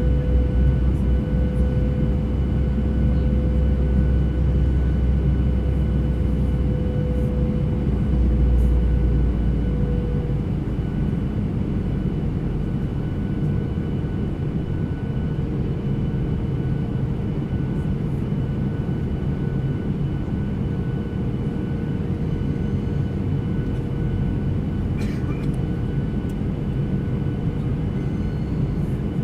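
Airliner cabin noise: steady engine drone and airflow rumble with a constant hum tone; the deepest part of the rumble eases a little about ten seconds in.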